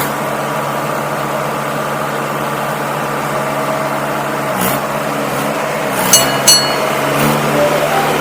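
Tractor diesel engine running steadily, its pitch rising a little near the end. Two short, high-pitched chirps stand out about six seconds in.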